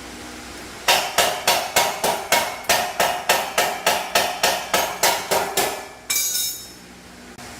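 A hammer striking metal about seventeen times in a steady rhythm, about three blows a second, each with a short ring. It ends with one more ringing clatter that fades out.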